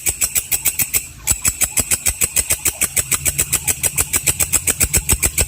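Walang kecek insect calling: a rapid, even train of harsh high-pitched pulses, about nine a second, with a brief break about a second in.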